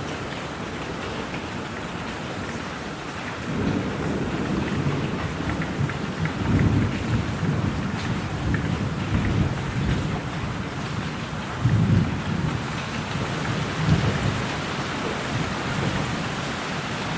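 Steady rain with a low thunder rumble that builds about three seconds in, swells several times, and fades again near the end.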